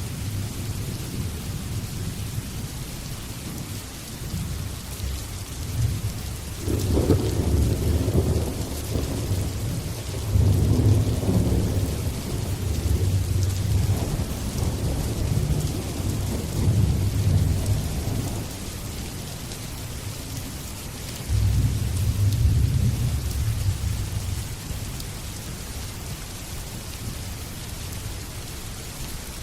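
Steady rain with rolling thunder: one long low rumble starting about six seconds in and lasting some twelve seconds, then a second rumble a few seconds later.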